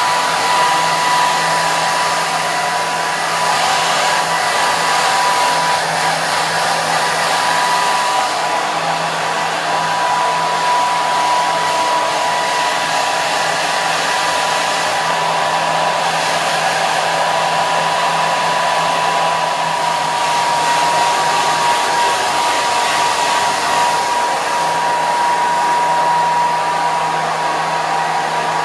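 Hair dryer running continuously: a steady rush of blown air with a constant high whine and a low motor hum, never changing in level or pitch.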